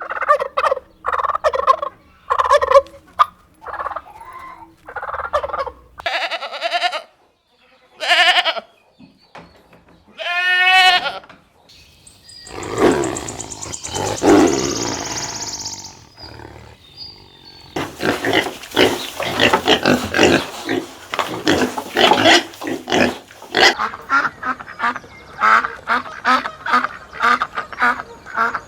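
Farm poultry calling: a string of separate short calls, then a flock calling over one another in dense, rapid chatter for the last ten seconds or so.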